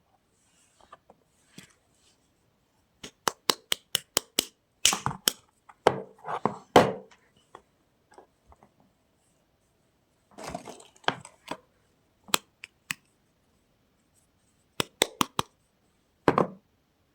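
Soap packaging being handled and opened by hand: quick runs of sharp clicks and taps, broken by a few short rustling, tearing sounds.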